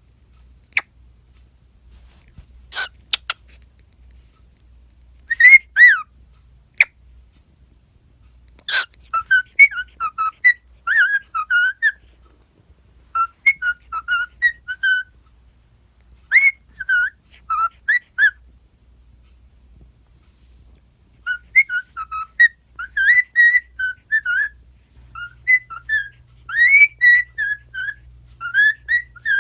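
Cockatiel whistling a tune in phrases of quick, gliding notes with short pauses between them. A few sharp clicks sound in the first several seconds.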